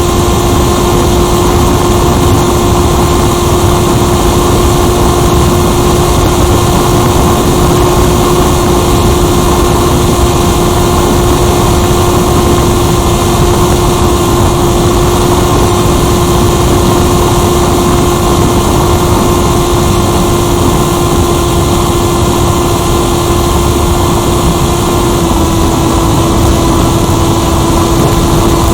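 Onboard sound of a radio-controlled motor glider in flight: its electric motor and propeller keep up a steady hum over a loud rush of air. The pitch of the hum steps down slightly near the end.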